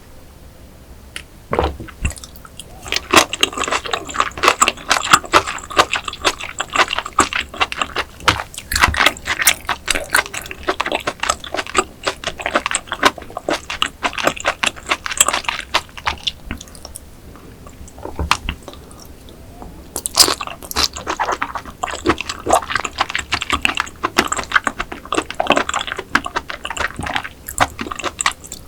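Close-miked chewing of raw oyster salad: wet, crackling mouth sounds with some crunch, in two long stretches with a pause of a few seconds in the middle.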